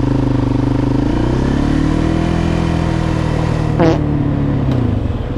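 Dirt bike engine running, its pitch rising from about a second and a half in and falling back again near the end. There is a short sharp sound about four seconds in.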